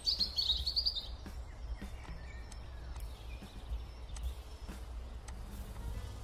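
Bird chirping in a quick trill during the first second, with fainter chirps after it, over a steady low hum.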